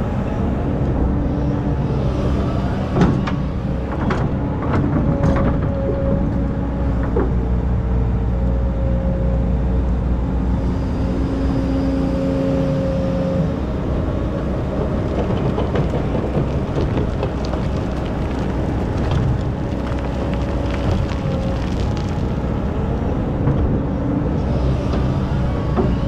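Excavator's diesel engine running steadily while working, with a higher steady tone at times and occasional sharp knocks.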